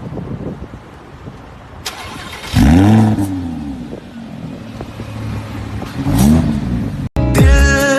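A supercar's engine revving twice: a loud rise and fall in pitch a few seconds in, and a second, shorter one a few seconds later. Music cuts in near the end.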